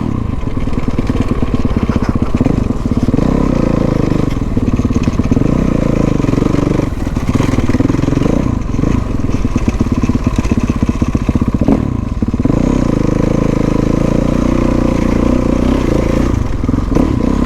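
Dirt bike engine running hard under throttle off-road, its revs rising and falling over and over as the rider opens and closes the throttle.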